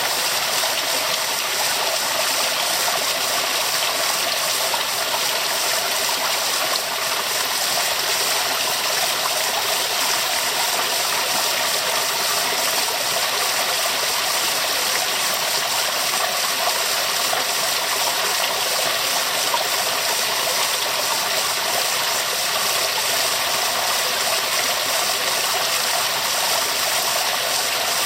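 Waterfall: water rushing steadily with an even, unbroken hiss.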